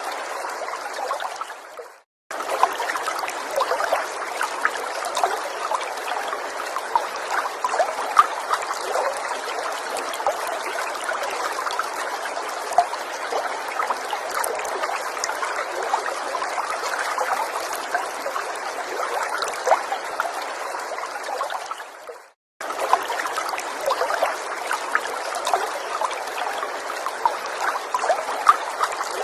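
Small forest stream trickling and babbling over stones, a steady rush of water dotted with tiny bubbling pops. It fades out and cuts back in twice, about 2 and 22 seconds in, where the recording loops.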